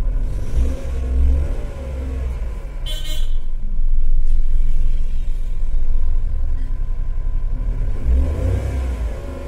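Car engine and road rumble, the engine note rising and falling as the car pulls away and gathers speed. A short sharp noise sounds about three seconds in.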